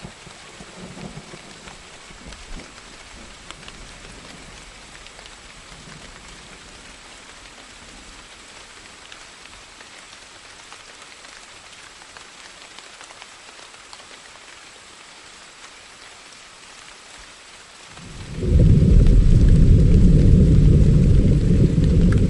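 Steady rain falling. About eighteen seconds in, a loud, low rumble of thunder swells up and keeps rolling.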